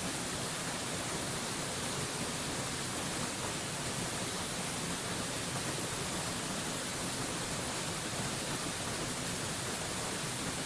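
Mountain waterfall rushing: a steady, unbroken hiss of falling water, even from start to end with no single splashes standing out.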